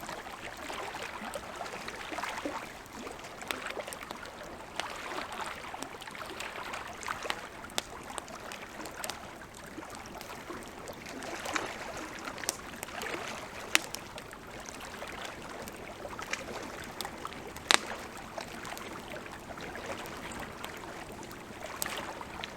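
Campfire wood crackling with scattered sharp pops, the loudest about two-thirds of the way through, over the steady wash of river water.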